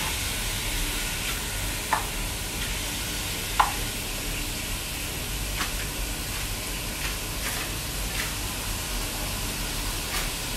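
Diced pork sizzling as it sautés in a pot with garlic and onion, stirred with a spatula, with a few sharp clicks.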